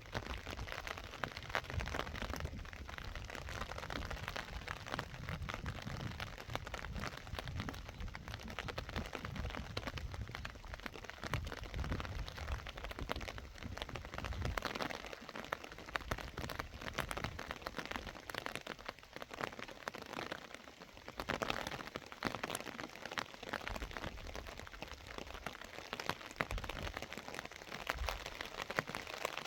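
Steady rain falling, a dense patter of drops with a low rumble underneath.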